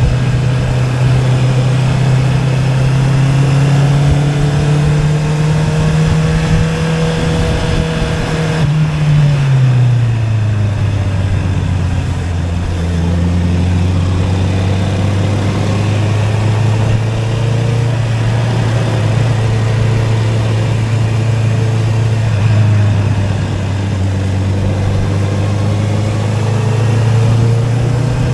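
Honda CB650R's inline-four engine breathing through an Akrapovic exhaust under way: the note climbs slowly under throttle, drops over about a second as the throttle closes around nine seconds in, then holds steady at lower revs.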